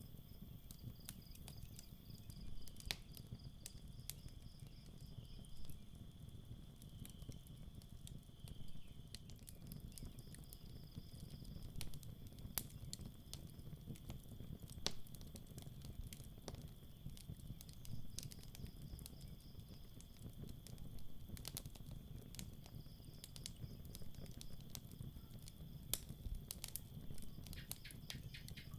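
Campfire crackling, with irregular sharp pops over a low steady rumble of the burning wood. Crickets chirp behind it in pulsed trills that come and go, over a steady high insect drone.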